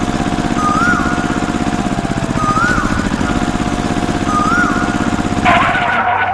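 Small engine running steadily with a fast, even low pulse, while a short chirp repeats about every two seconds. Near the end there is a louder noisy burst, then the engine sound cuts off.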